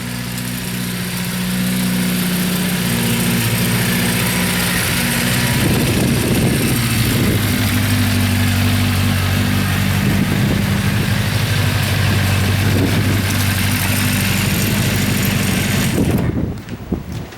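Honda CB400FOUR's 408cc air-cooled inline-four engine running at a steady, low speed. It gets louder over the first couple of seconds and is switched off near the end.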